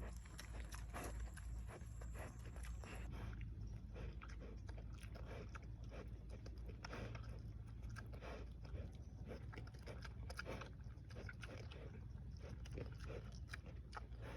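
An animal chewing and crunching food: irregular crunchy bites, several a second, over a steady low hum.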